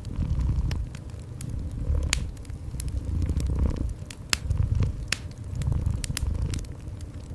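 Domestic cat purring, a low sound that swells and fades with each breath, about once a second. Over it, a wood fire crackles with scattered sharp pops.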